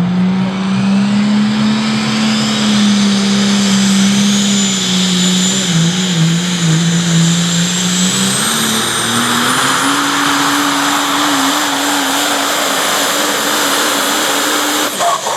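Pulling truck's engine running hard under load down the track, with a high turbo whine climbing steadily. The engine pitch steps up about eight to ten seconds in, then holds until an abrupt cut near the end.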